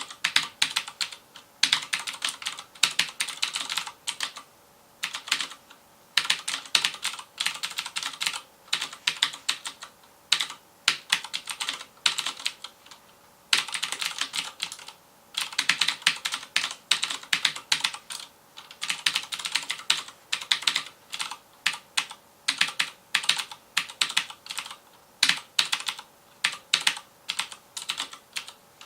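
Fast continuous typing on a FILCO Majestouch Convertible 2 mechanical keyboard with Cherry MX Blue switches: rapid crisp clicks in bursts, broken by short pauses about five, thirteen and seventeen seconds in.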